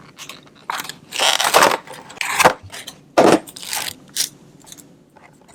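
Model-aircraft packaging being opened by hand: irregular scraping, crinkling and crackling as the box and its insert are pulled apart, in several short bursts.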